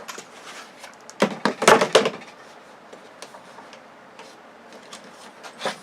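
Clatter of TV parts being handled during disassembly: scattered clicks, with a quick run of loud knocks about a second in and another knock near the end.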